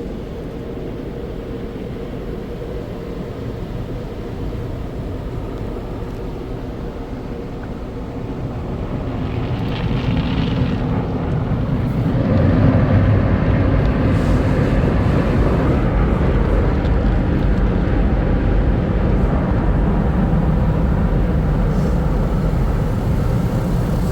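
Automatic car wash tunnel equipment heard from inside a car on the conveyor: a steady rumble with a faint hum, swelling about ten seconds in to a loud, steady wash of machinery noise.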